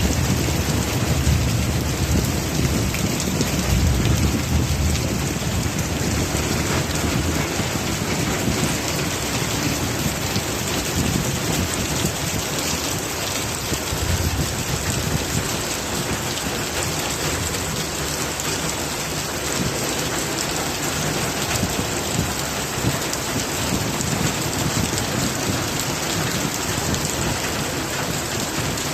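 Heavy rain falling steadily in a thunderstorm, with low rumbling, loudest in the first few seconds and again briefly about halfway through.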